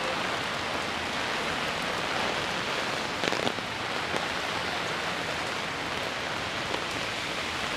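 Heavy typhoon rain falling and splashing, a steady dense hiss, with a brief louder clatter about three seconds in.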